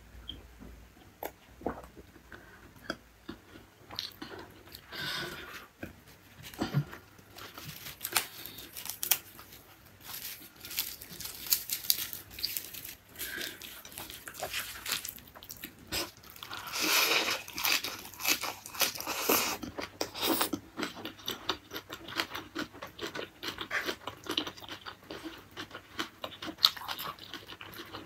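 Close-miked chewing, biting and crunching of food, wet mouth sounds with crisp crunches. The crunching is sparse at first and grows loudest and densest a little past halfway, as raw leafy vegetables with sambal are chewed.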